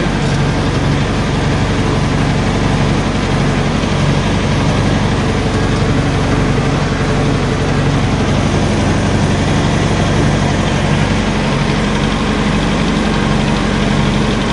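DT-75 crawler tractor's diesel engine running steadily at idle after a cold start in about minus 18 frost, brought to life with the pony starter motor.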